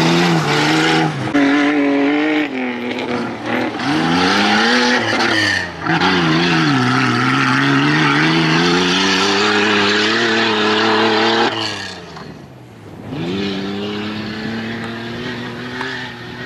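Off-road 4x4 race car engine revving hard, its pitch climbing and dropping repeatedly through gear changes and throttle lifts. About two-thirds of the way in it cuts out and comes back quieter, farther off.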